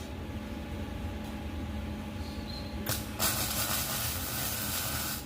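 A click, then a loud steady hiss that starts about three seconds in and cuts off suddenly near the end, over a low steady hum.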